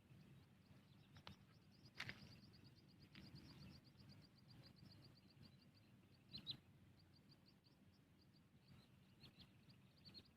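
Faint evening outdoor ambience: a fast, even, high-pitched chirping of about seven or eight chirps a second, with two louder calls about two seconds in and past six seconds.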